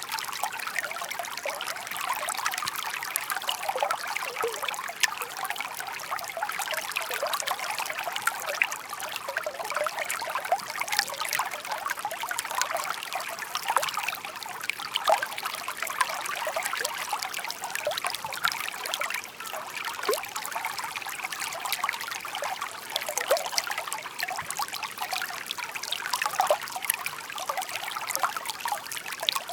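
Shallow babbling stream trickling steadily, full of small splashing and bubbling notes.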